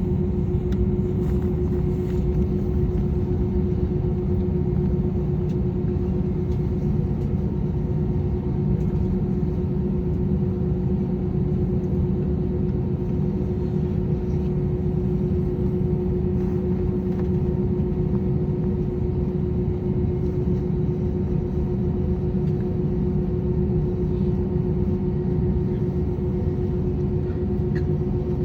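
Airbus A320's IAE V2500 turbofan engines at full takeoff (TOGA) thrust, heard from inside the cabin: a steady, loud rumble with a constant hum.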